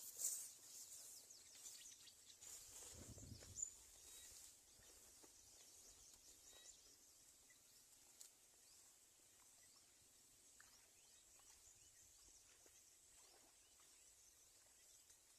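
Near silence: faint outdoor ambience, with a few soft rustles and clicks in the first few seconds.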